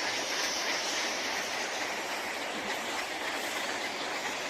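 Steady dense din of a large colony of roosting fruit bats, many calling at once.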